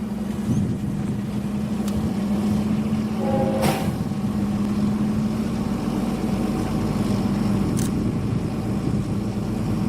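Diesel train running with a steady engine drone, with a few sharp clicks along the way, the strongest about four seconds in.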